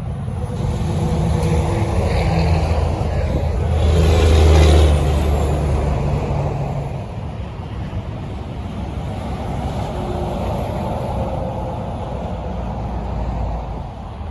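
A truck driving past, its engine noise building to loudest about four to five seconds in as it passes, then road noise running on.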